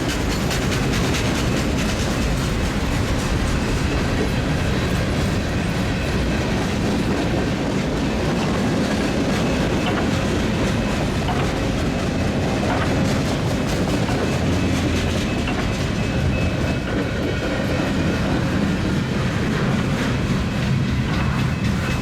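Freight train passing close by, its cars' wheels clicking steadily over the rails.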